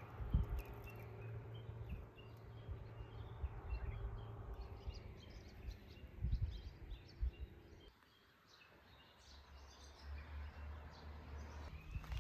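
Small birds chirping repeatedly in the distance over low outdoor background rumble, with occasional soft thumps; a steady low hum comes in after a brief quieter moment about two thirds of the way through.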